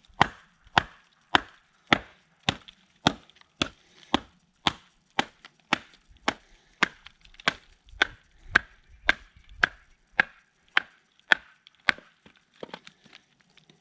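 Batoning: a heavy-duty, short-bladed fixed-blade knife is struck over and over on its spine to drive it through a piece of firewood and split it. The knocks are sharp and evenly paced, about two a second, and grow fainter near the end.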